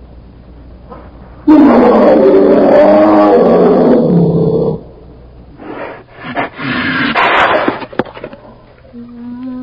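A large wild animal roaring: one long, loud roar starting about a second and a half in and lasting about three seconds, then a shorter, rougher roar a little later. Near the end a pitched call that rises and falls begins.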